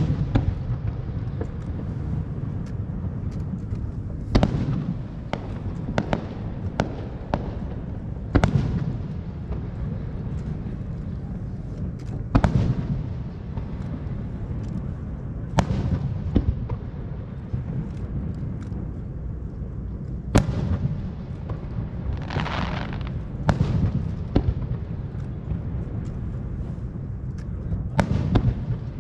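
Aerial fireworks bursting: a loud bang every three to four seconds, each trailing off in an echo, with smaller pops and crackles between them.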